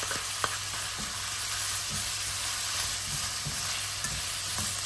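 Diced pork, garlic and onion sizzling in hot oil in a nonstick wok, stirred with a spatula that knocks and scrapes against the pan now and then.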